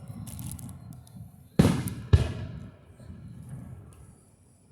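Fireworks bursting overhead: a faint crackle less than a second in, then two sharp bangs about half a second apart, each followed by a rolling echo that dies away.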